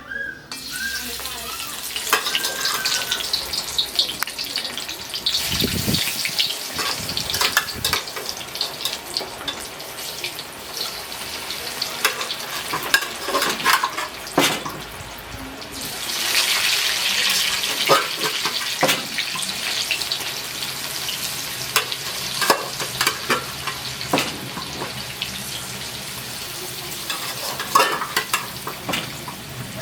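Boiled cassava pieces frying in hot oil: a steady sizzle, louder from about halfway through, with scattered sharp clicks.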